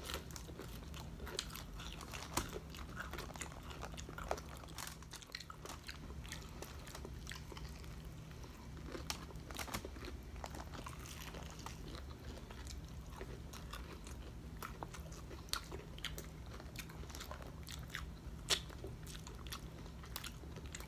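Close-up crunching and chewing of a crispy, breaded deep-fried pork chop, with many sharp crunches of the crust throughout, over a steady low hum.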